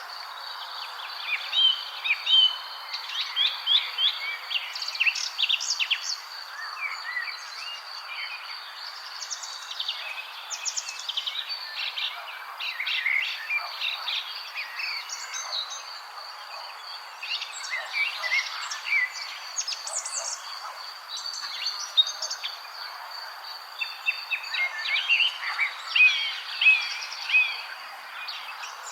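Small songbirds chirping in clusters of quick, short notes, over a steady high-pitched insect drone and a soft outdoor hiss.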